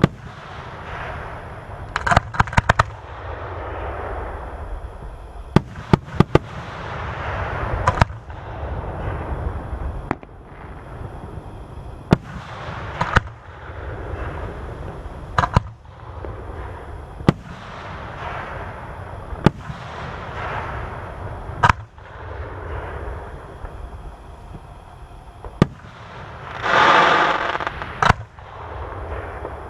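Aerial fireworks display: about a dozen sharp bangs of bursting shells, some in quick clusters, with swells of rushing, crackling noise between them and a louder swell near the end.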